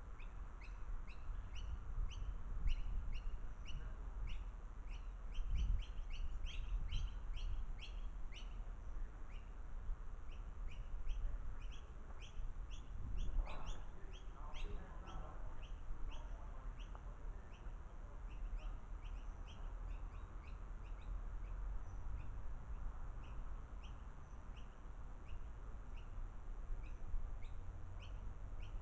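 Bird chirping in quick short repeated notes, dense for the first several seconds and then sparser. A brief burst of lower-pitched calls comes about halfway through, over a steady low rumble.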